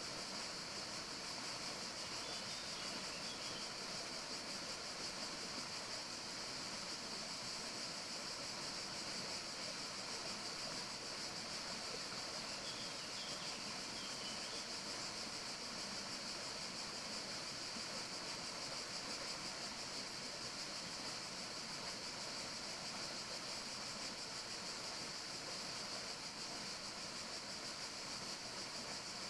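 Steady outdoor forest ambience: an even hiss with a strong high band that does not change, with a couple of faint chirps about two seconds in and again about twelve seconds in.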